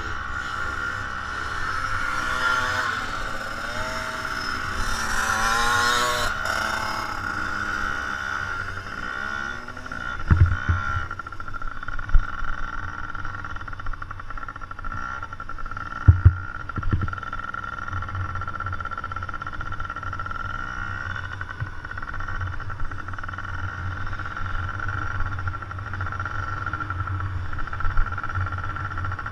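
Motocross dirt bikes running on a track, engines rising in pitch as they rev and accelerate during the first few seconds, then a steady engine drone. A few short low thumps stand out partway through.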